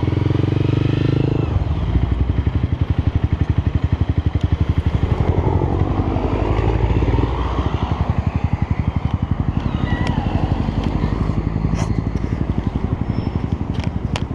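Motorcycle engine running as the bike is ridden, with a fast, even exhaust beat. The engine note drops about a second and a half in and the level eases about seven seconds in as the bike slows.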